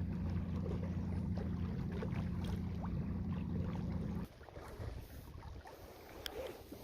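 The Minn Kota electric motor of an Old Town Sportsman 106 kayak runs with a steady low hum, then cuts off abruptly about four seconds in. Faint scattered ticks follow.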